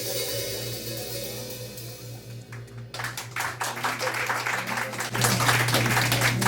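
A jazz band's final chord rings out over electric bass and cymbal wash, then audience applause breaks out about halfway through and grows louder.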